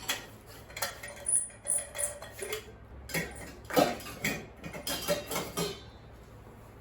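Dishware being handled: a dozen or so irregular clinks and knocks of hard items set down and knocking together, some with a brief ring.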